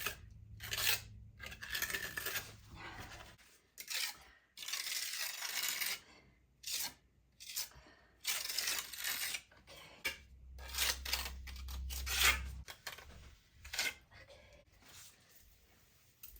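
Trowel scraping through Quikrete Rapid Set Repair Mortar, a run of irregular rasping strokes, some short and one long one about five seconds in.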